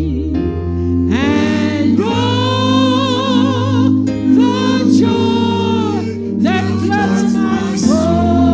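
Gospel music: sung phrases of long held notes with vibrato, starting about a second in, over steady instrumental backing.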